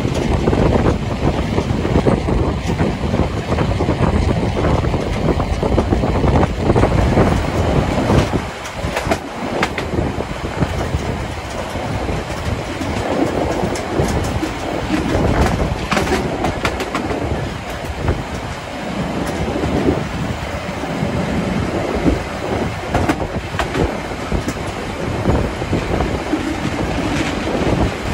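A train on the Harz metre-gauge railway running along the rails, its wheels clattering over the rail joints in a steady clickety-clack.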